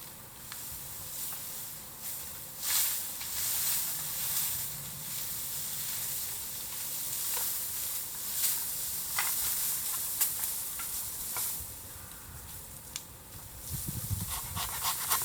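Bamboo burning in a bonfire: a steady hiss and sizzle with sharp crackles and pops scattered through. A louder, low rustling noise comes in near the end.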